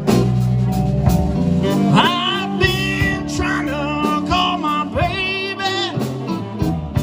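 Live slow blues band playing: an electric guitar plays fills with bent notes and vibrato over bass and drums keeping a steady beat.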